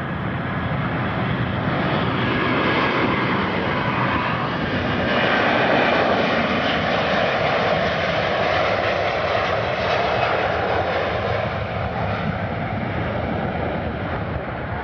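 Airliner's engines passing close by, a loud rushing rumble that swells to its loudest about six seconds in and then slowly fades.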